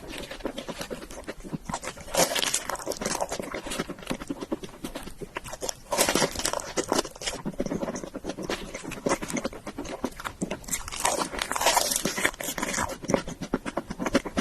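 Close-miked chewing: wet, sticky mouth sounds and crunchy clicks in quick succession, with longer, louder stretches about two, six and eleven seconds in.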